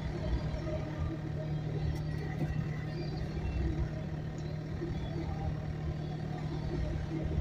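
Freight train of autorack cars rolling through a grade crossing: a steady low rumble of wheels on rail with a constant low hum underneath, heard from inside a stopped car.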